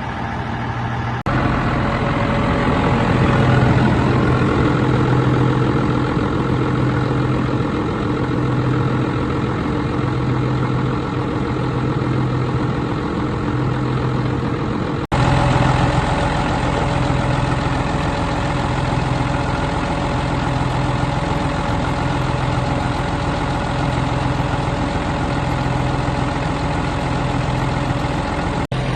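Scania 113H-320's 11-litre straight-six diesel idling steadily, with a low hum that swells and fades evenly about once a second. The sound breaks off for an instant twice, about a second in and about halfway through.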